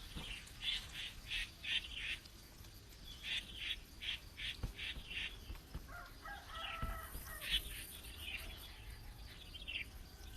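Bird calling: runs of short, sharp notes at about three to four a second, with a lower, fuller call about six seconds in.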